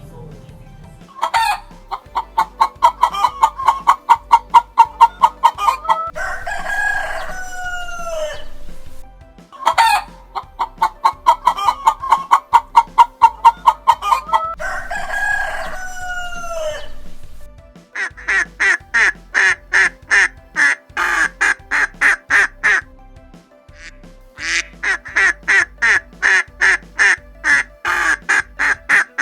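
Chickens: a hen's fast, evenly spaced cackle, then a rooster crowing with a long call that rises and falls. This passage plays twice, followed by two long runs of rapid, higher clucking.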